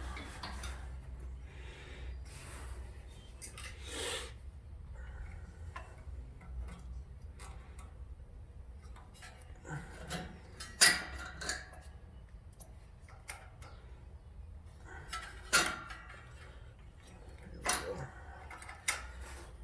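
Small metal parts clicking and knocking as a riding mower's carburetor and choke linkage are worked back into place on the engine, with a few sharper clacks about halfway through and again near the end.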